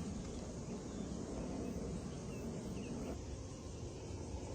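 Steady low background noise outdoors, with a few faint, short, high chirps.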